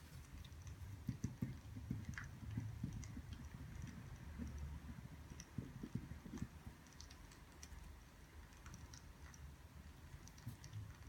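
Faint, scattered crackles of burning firewood, with soft low knocks and taps clustered about a second in and again around six seconds in.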